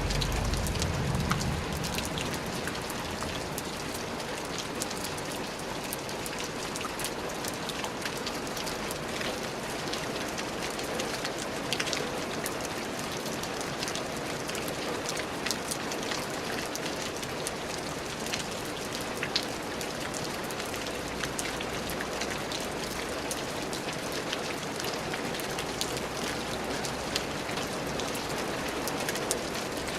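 Steady rain falling on a hard surface: a constant hiss dotted with many sharp individual drop ticks. A brief low rumble sits under it in the first second or two.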